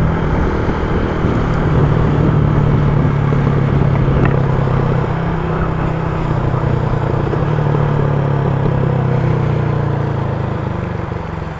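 Motorcycle engine running at a steady cruising speed under an even rushing noise of wind and wet road, easing off near the end.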